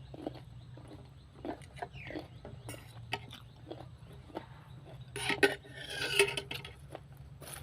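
Eating at a table: a spoon clicking and scraping against a plate, with chewing, in a series of short taps and a louder stretch from about five seconds in.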